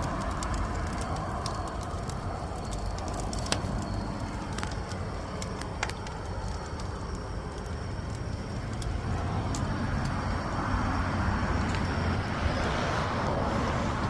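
Firewood burning in the gudeul firebox: a steady rushing noise with scattered sharp crackles and pops.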